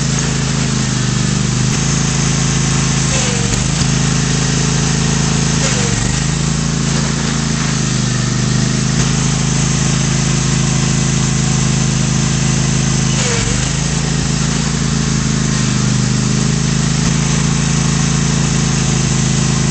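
Lawn tractor engine running steadily, its pitch dipping briefly and recovering three times: about three seconds in, about six seconds in, and again near the middle.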